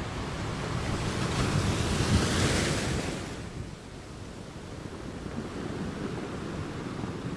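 Ocean surf: a wave swells in a rush of hiss about a second in, peaks around two seconds and falls away by about three and a half seconds, leaving a lower steady wash of water.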